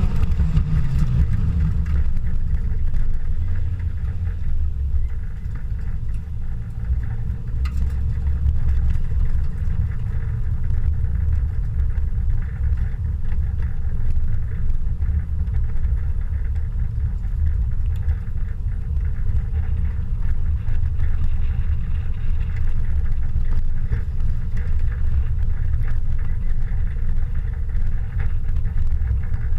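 A 1998 Honda Civic hatchback being driven: a steady low rumble of engine and road noise, with the engine note falling in pitch at the start as it slows.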